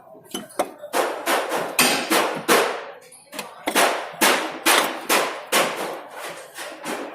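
Hammer strikes on metal: a run of sharp, ringing blows, about two a second, with a short pause about three seconds in.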